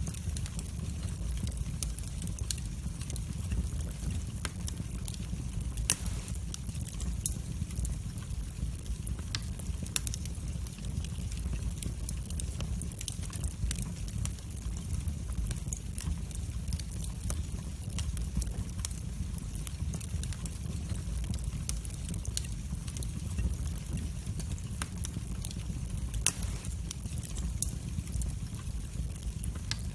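Wood fire in a fireplace crackling, with frequent small snaps over a steady low rumble of the flames. Two sharper pops stand out, one about six seconds in and one a few seconds before the end.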